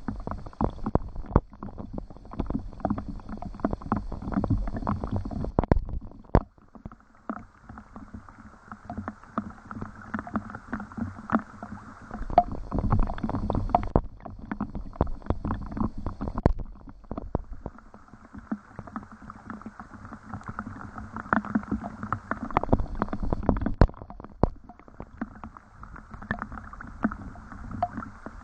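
Rain falling, with many close drops tapping irregularly and unevenly.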